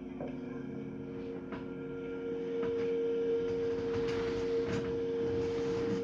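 Film soundtrack music: a steady held ringing note over lower sustained tones, with a rushing hiss swelling in about two and a half seconds in.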